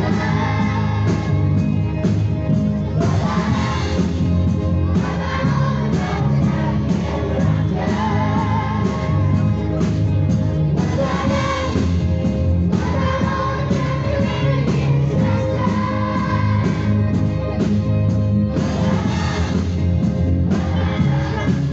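Amplified singing over a backing track with a steady beat, from a street sing-along performance.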